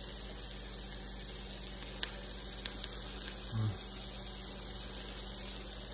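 A man chewing a mouthful of burger, with a few faint mouth clicks and a short low "mm" about three and a half seconds in, over a steady hiss.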